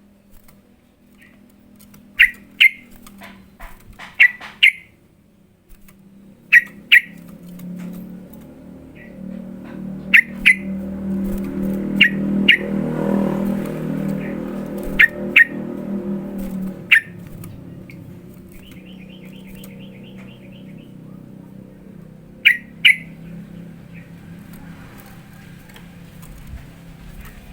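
Yellow-vented bulbul calling: sharp chirps, mostly in quick pairs, with a short rapid trill about two-thirds of the way through. A vehicle's low rumble swells and fades in the background through the middle.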